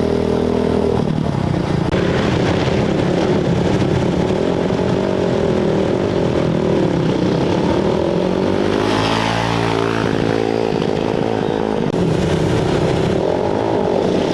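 Off-road race motorcycle engines running and revving, with the pitch swooping up and down around two-thirds of the way through.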